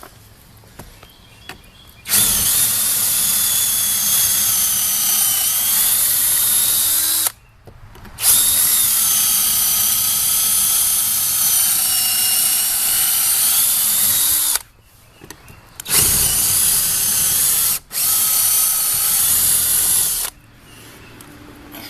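Cordless drill with a long extended bit boring bolt holes through the wooden barn door. It runs in four long bursts with short pauses between, and its pitch sags now and then as the bit loads up in the wood and picks up again.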